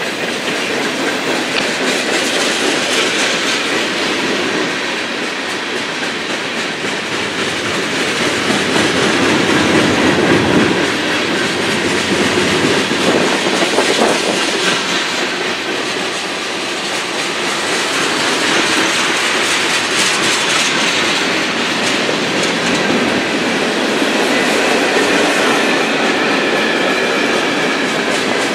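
Freight train cars rolling past, wheels clicking over the rail joints in a steady, loud rumble that swells and eases, with a faint wheel squeal near the end.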